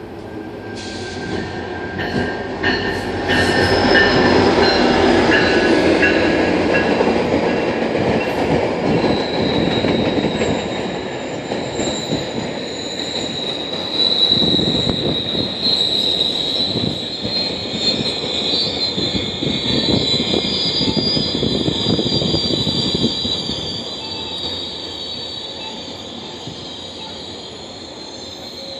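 GO Transit commuter train of bilevel coaches passing: its rumble builds over the first few seconds, then the wheels clatter and a steady high wheel squeal rings out as the coaches go by.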